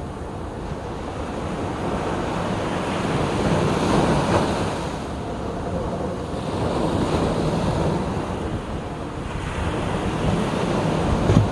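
Sea waves breaking and washing on the shore in repeated surges a few seconds apart, with wind buffeting the microphone. A brief sharp knock comes near the end.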